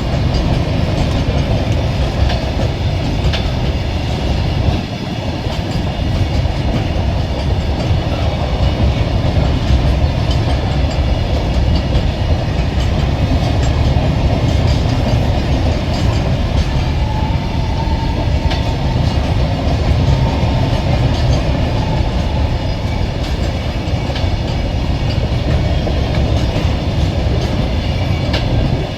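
Goods train rolling past: a loud, steady rumble with wheels clacking over the rail joints. There is a brief faint whine about two-thirds of the way through.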